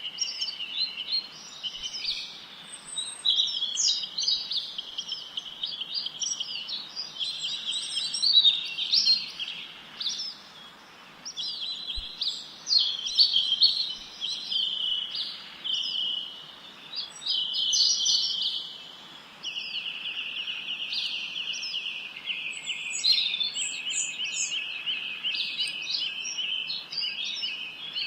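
Songbirds singing continuously: overlapping chirps, quick rising and falling notes and rapid trills, high-pitched, over a faint steady hiss.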